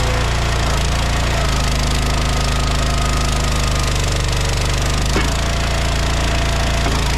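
Small gas engine running steadily under load, with a single sharp knock about five seconds in.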